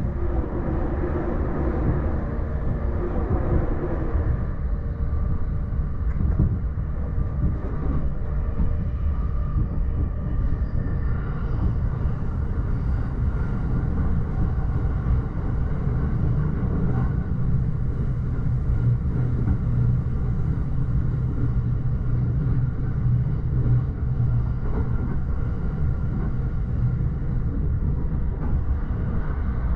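Running noise of an E231 series electric commuter train, heard inside the upper deck of a bilevel Green car: a steady rumble of wheels on track. A deeper drone swells for several seconds around the middle.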